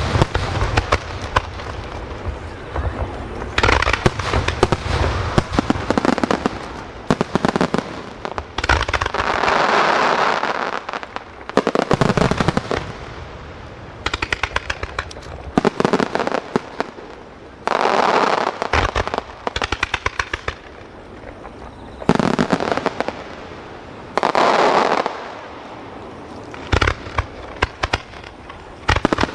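Fireworks starmine (rapid-fire barrage): clusters of sharp shell bursts and crackling, broken by short lulls between volleys.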